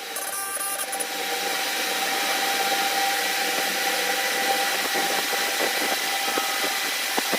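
A power tool running steadily, with a hissing, grinding noise and a few steady tones.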